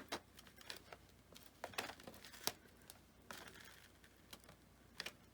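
Foam board pieces being handled and set down: a few scattered light taps and clicks with a brief faint rustle, the sharpest tap about halfway through.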